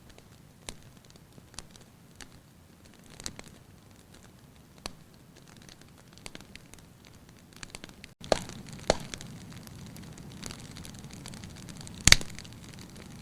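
Wood fire in a fireplace crackling, with scattered sharp pops over a low steady hiss. The hiss grows louder after a very brief dropout about eight seconds in, and the loudest pop comes about twelve seconds in.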